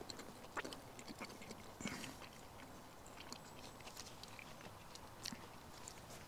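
Faint chewing of a crisp-fried quesadilla, with scattered soft clicks.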